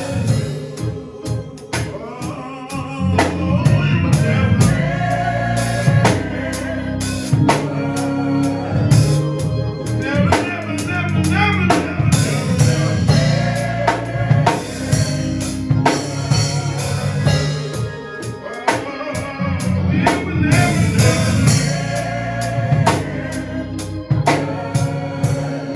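Live gospel music: singing over a full drum kit with bass and keyboard.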